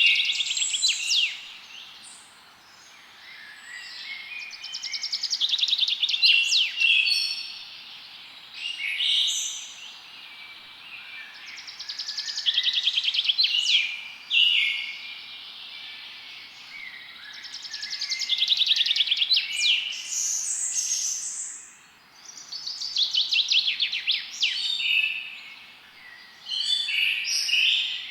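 A songbird singing the same fast, trilling song phrase over and over, each lasting two or three seconds, with gaps of a few seconds between. Under it is a faint, steady background hiss.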